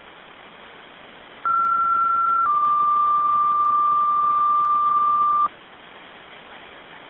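Fire dispatch radio two-tone page over steady radio hiss: a higher tone for about a second, then a slightly lower tone held for about three seconds, cutting off abruptly. It alerts companies to the second alarm being struck.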